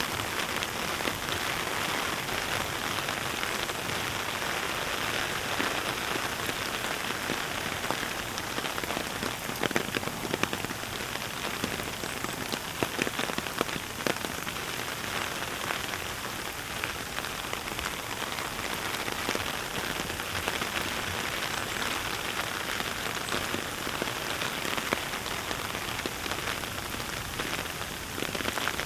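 Heavy rain falling steadily after a typhoon: a dense, even hiss with many individual drops ticking on surfaces close by.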